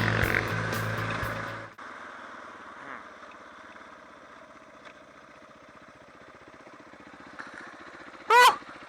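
Background music that cuts off abruptly under two seconds in, leaving a Suzuki DR650's single-cylinder engine running steadily at road speed. Near the end comes one brief, loud sound that rises and falls in pitch.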